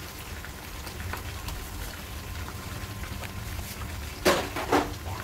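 Chicken pieces deep-frying in a pan of hot oil: a steady bubbling sizzle with fine crackles. Near the end come two loud clatters about half a second apart.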